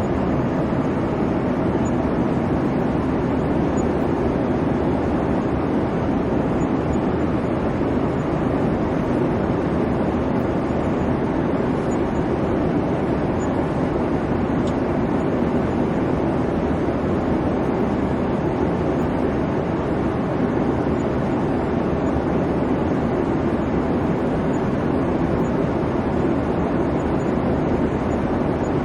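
Airliner cabin noise in flight: a steady, even rumble of engines and airflow with no changes.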